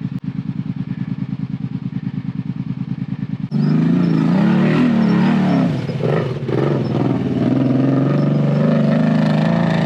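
ATV engine running at low revs with an even putter, then about three and a half seconds in suddenly much louder, its revs rising and falling.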